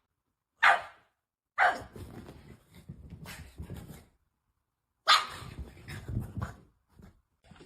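A dog barking three times: two barks about a second apart, then one more a few seconds later, with softer scuffling noise between.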